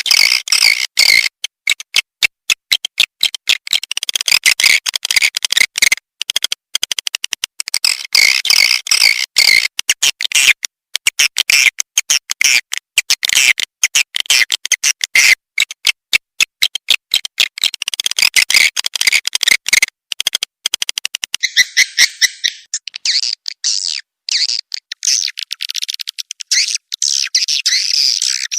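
Swiftlet lure-call recording: dense, rapid, high-pitched twittering chirps of edible-nest swiftlets in quick runs broken by brief gaps, changing to a different chirp pattern about two-thirds of the way through.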